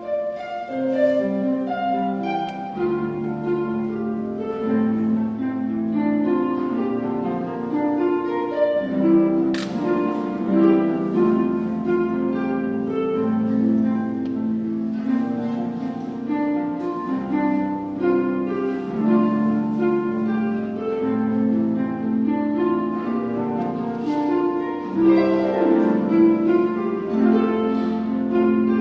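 Harp and pipe organ playing together: a flowing line of plucked harp notes over sustained organ chords.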